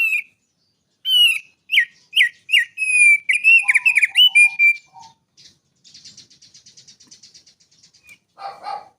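Songbird singing: a loud run of clear, whistled notes that slide up and down, then a faint rapid buzzy trill, and a few harsher chattering notes near the end.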